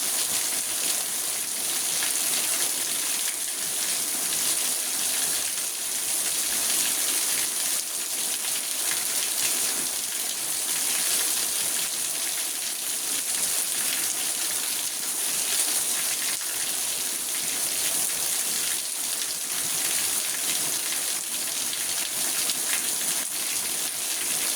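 Steady rain falling on a car, heard from inside the cabin: an even, unbroken hiss of many drops that neither builds nor fades.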